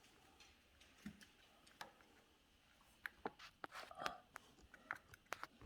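Faint clicks and small snaps of a little plastic toy egg being squeezed hard and pried open by hand, coming thicker from about halfway through.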